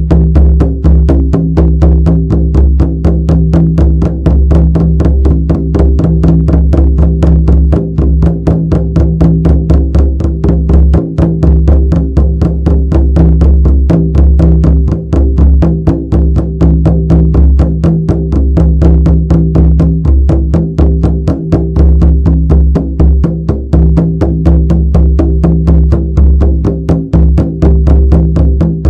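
Shamanic frame drum beaten in a rapid, even, unbroken rhythm, each stroke leaving a deep ringing boom that carries into the next.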